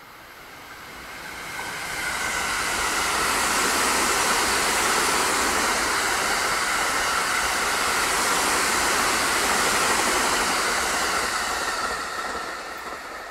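A JR 285 series Sunrise Express sleeper train passing at speed, with steady wheel-on-rail rumble and rushing noise. It swells over the first couple of seconds, holds, then dies away near the end.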